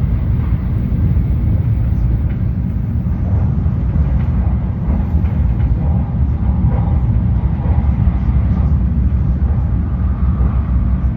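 Steady low rumble of a Shinkansen bullet train in motion, holding even with no rise or fall.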